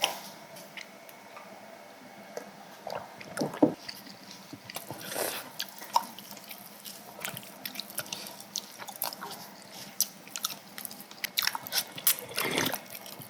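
Close-up eating of samgyetang chicken soup: soft wet chewing and slurping, with scattered small clicks.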